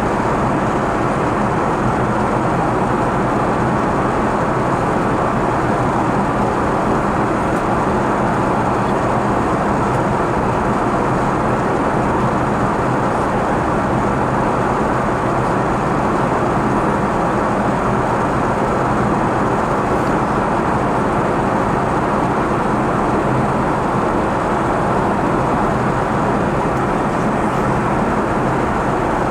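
Steady cabin noise inside a flying Airbus A380-841: an even rush of engine and airflow noise, unchanging in level.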